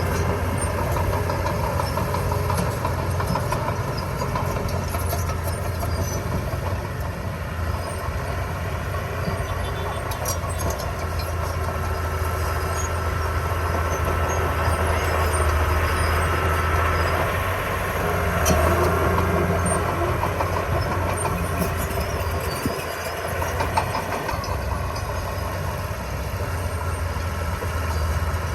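Heavy diesel engine of earthmoving machinery running steadily, with a few light clanks; it eases briefly about twenty-three seconds in.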